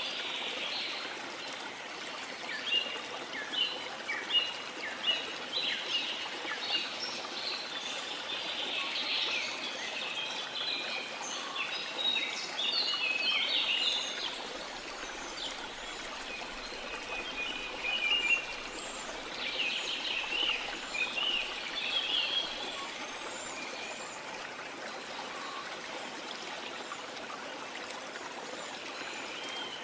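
Tropical rainforest ambience: a waterfall's steady rush of water under many birds chirping and calling, in quick runs of notes that are busiest in the first half and again about two-thirds of the way through.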